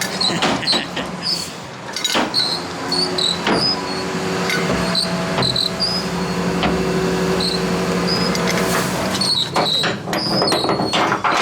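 Skip lorry engine running steadily under load while its skip-loading gear works, with scattered metal knocks and clanks.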